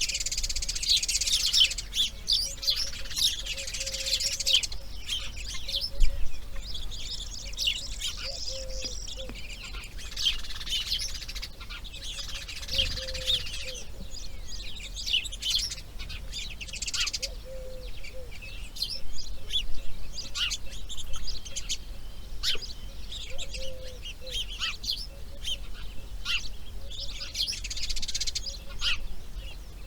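Wild birds chirping and calling together, with many short sharp chirps and clicks throughout and a short low note repeating every second or two.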